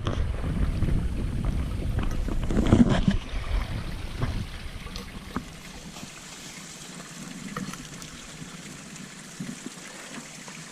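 Strong wind buffeting the microphone in uneven gusts, then dropping to a quieter steady hiss about halfway through.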